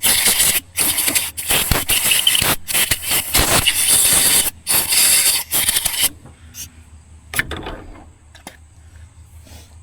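Grinder working metal in several harsh, loud bursts with brief pauses, then a short last burst about seven seconds in, as a shaft fitting is ground down to fit.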